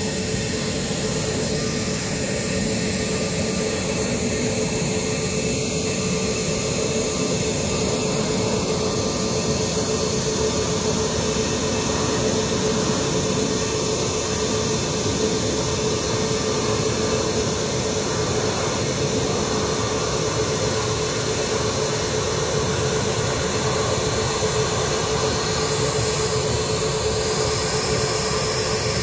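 Jet airliner engines running steadily on the ground, a constant rumble with a steady hum that neither rises nor fades.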